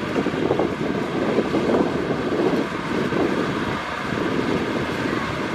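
Kubota DC-70 Plus rice combine harvester running steadily, with wind buffeting the microphone.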